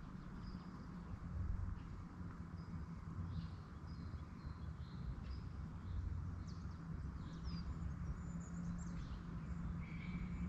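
Wild birds chirping and calling faintly in short scattered notes over a steady low rumble.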